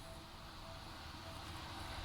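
Faint low rumble of a train approaching, growing slowly louder.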